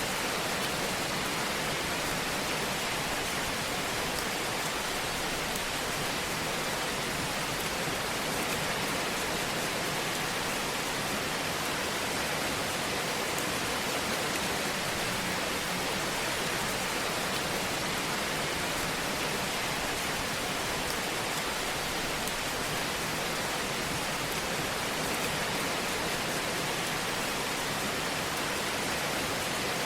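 Steady, even hiss from a fireplace sound track, with no distinct crackles or pops standing out.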